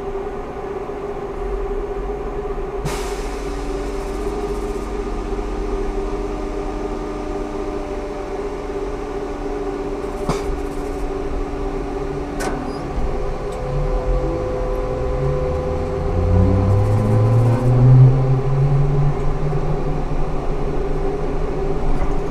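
Ikarus 280T trolleybus with GVM electric traction equipment: several steady electrical whine tones with three sharp clicks. About two-thirds of the way in, a low motor whine starts rising in pitch and getting louder as the trolleybus accelerates.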